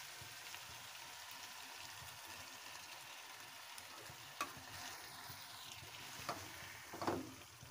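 Chicken frying in oil in a nonstick karahi, a steady low sizzle as yogurt goes in. In the second half, a few light knocks of a plastic spatula against the pan as it starts working the yogurt.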